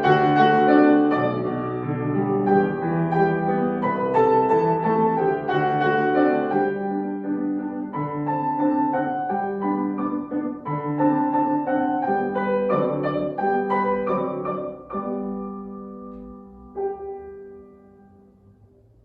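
Solo piano playing a classical piece, growing quieter toward the end and closing on a final chord near the end that rings out and dies away.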